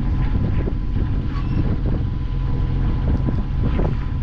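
A sailing yacht's engine running steadily while motoring under way, a continuous low drone, with wind buffeting the microphone.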